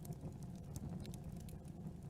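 Campfire burning: a steady low rumble of the flames with frequent small, irregular crackles and pops of burning wood.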